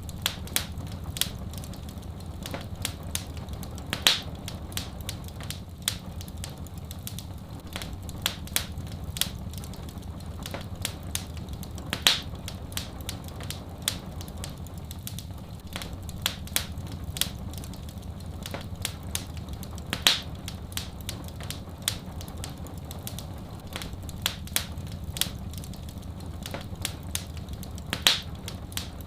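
Wood fire crackling, with frequent sharp pops and a louder crack about every eight seconds, over a steady low rumble.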